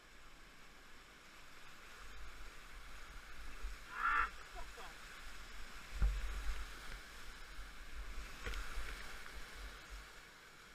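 River water rushing over rapids, a steady hiss, with wind buffeting the microphone in low rumbles; a brief call or shout about four seconds in.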